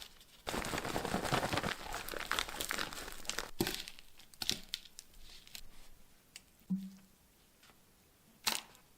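Rustling and crinkling handling noise for about three seconds, then a few scattered clicks and a short knock.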